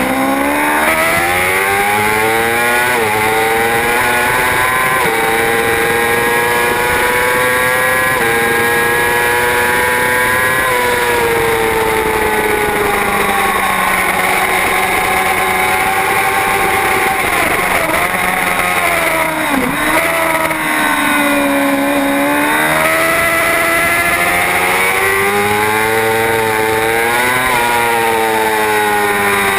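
Superbike racing motorcycle engine at race pace: its pitch climbs and steps down with upshifts through the first ten seconds, falls with downshifts under braking through the middle, and climbs again through the gears near the end.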